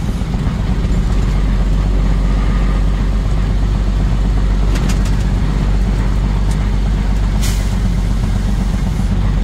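A truck's engine and road noise running steadily as it drives. There are a few light clicks about midway and a short hiss about three-quarters of the way through.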